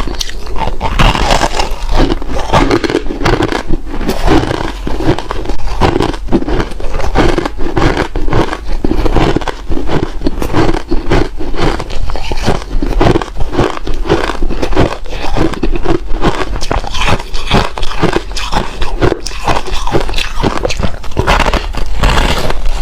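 Ice being bitten and chewed close up: a continuous, loud run of crunches, several a second, with no break.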